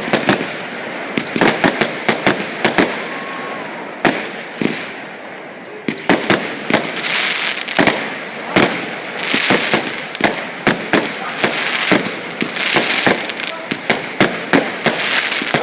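New Year's Eve fireworks: many sharp bangs at irregular intervals, with stretches of crackle and hiss from bursting effects around a third, over half and about four-fifths of the way through.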